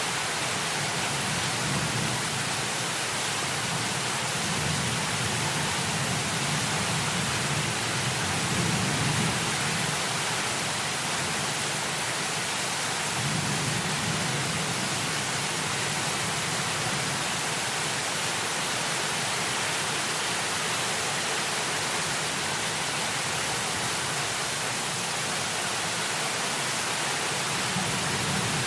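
Heavy rain falling in a steady, even hiss. A low rumble swells and fades several times under it.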